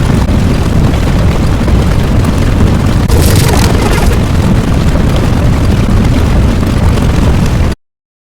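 Loud, continuous rumbling sound effect with a brighter hissing burst about three seconds in. It cuts off abruptly near the end.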